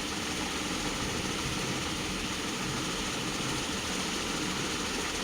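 Steady background hum and hiss, unchanging throughout.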